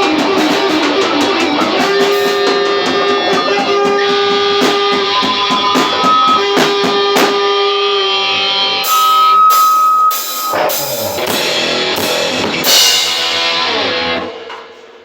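Live metal band rehearsing: electric guitar playing sustained notes and chords over a drum kit. In the last few seconds the drums hit a string of cymbal crashes, the song ends, and the sound dies away about a second before the end.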